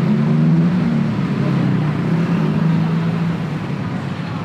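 A motor vehicle engine running steadily close by, a low, even hum with a slight shift in pitch.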